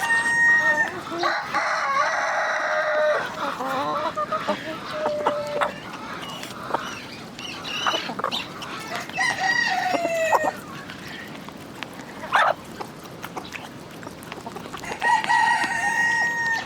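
Chickens: roosters crowing several times in long held calls, over the steady clucking of hens.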